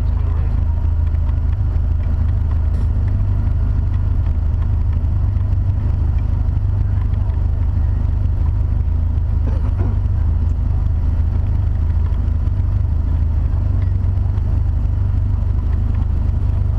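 Kit car's engine running steadily at low speed, a constant low rumble picked up through a camera mounted on its bonnet.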